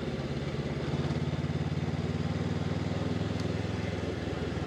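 Honda CB500X's parallel-twin engine running steadily.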